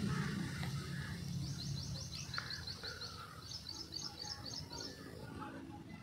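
A small bird calling in two runs of quick, high repeated chirps, about seven a second, over faint rural background noise.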